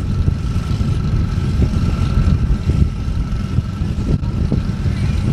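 Two V8 cars, a Cadillac CTS-V and a Mustang, idling side by side with a steady low rumble, along with a faint steady high whine.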